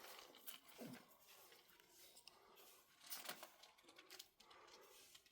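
Near silence with faint rustling, handling noises and a few soft clicks.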